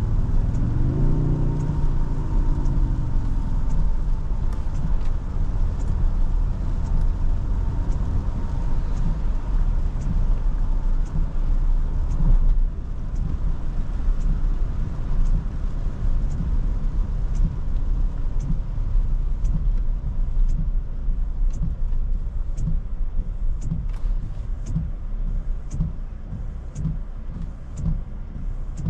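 Cabin noise of a 2023 Toyota Tundra 1794 with a V6 hybrid powertrain driving on wet roads: a steady low road and tyre rumble. About a second in, the engine note rises and then falls.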